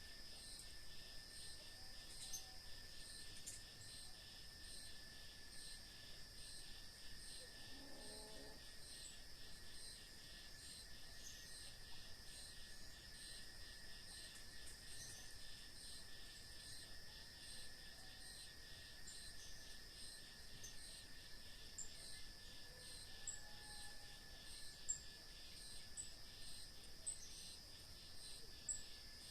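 Faint dusk insect chorus dominated by crickets: a steady high trill with evenly repeating chirps over a continuous thin whine. A brief faint low call sounds about eight seconds in.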